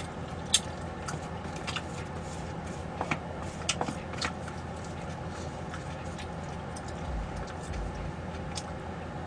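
Scattered light clicks and taps of eating, utensils and dishes, over a steady low background hum.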